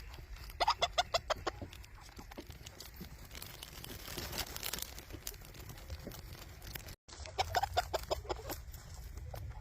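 Chickens clucking in two quick runs of rapid calls, each lasting about a second, one near the start and one about three-quarters of the way through, over a low steady background rumble.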